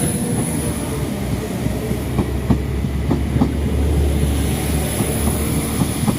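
A train passing close by with a steady low rumble, its wheels clacking over rail joints several times in the middle of the passage.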